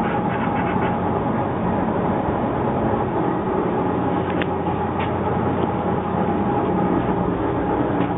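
Steady running noise inside the cab of a DF11G diesel locomotive: a low engine hum with a constant whine over it. Two short clicks come about halfway through.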